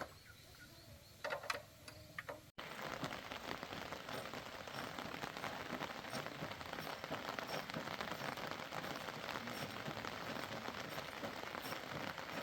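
Dense, steady patter like rain on a surface, starting abruptly about two and a half seconds in after a quiet stretch with a few brief voice sounds.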